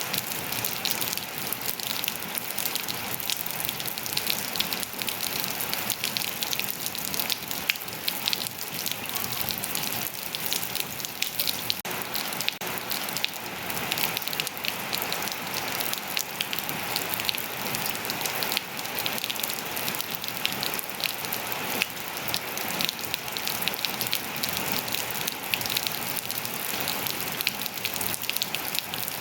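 Steady rain falling on hard surfaces and foliage: a constant hiss dense with the ticks of individual drops.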